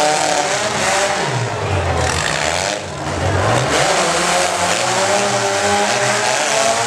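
Compact pickup truck engine running hard at high revs, its pitch rising and falling, with a brief drop about three seconds in before it climbs again.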